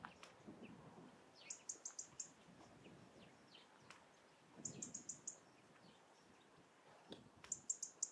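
A small songbird repeating a short phrase of four to six quick, very high-pitched notes, three times about three seconds apart. Other birds give fainter scattered chirps in between.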